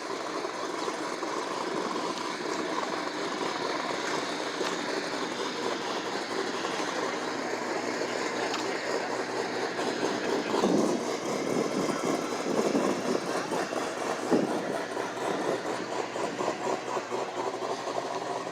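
A vehicle engine running close by, with a steady rumble and a few louder swells in the second half.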